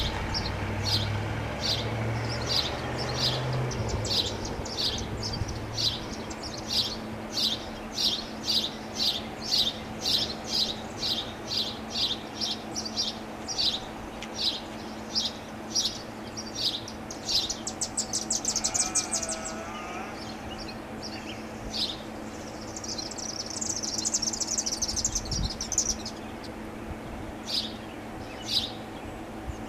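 A bird chirps over and over, about twice a second, for the first half. Then come a brief buzzy trill and scattered chirps. Under it runs a faint steady low hum from the Federal Signal STL-10 siren still slowly winding down after its blast.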